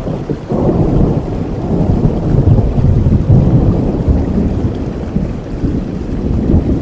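Thunder rolling over steady rain: a low rumble swells about half a second in, is loudest in the middle and eases off toward the end, with the hiss of rain throughout.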